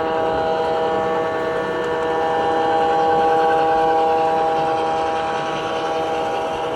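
Locomotive air horn holding one long, steady multi-note chord, growing louder about three seconds in and easing off near the end.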